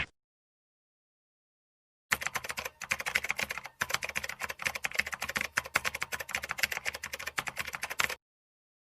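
Computer keyboard typing: a rapid, uneven run of key clicks that starts about two seconds in, lasts about six seconds and stops abruptly.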